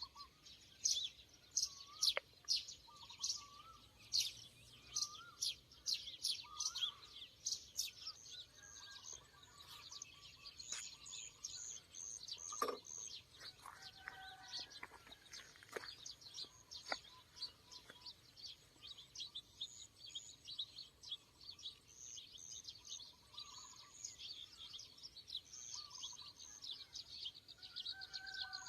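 Several birds chirping, with many short high chirps and a few lower warbling calls mixed in; the chirping is thickest in the first several seconds.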